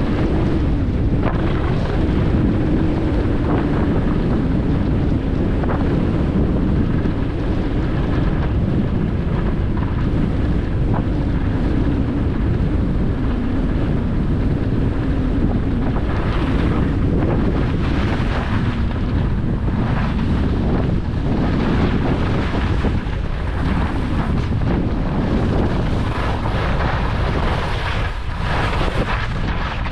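Wind buffeting the microphone of a skier moving downhill, with skis hissing and scraping over the snow. In the second half the ski scrapes come as a series of separate strokes, one turn after another.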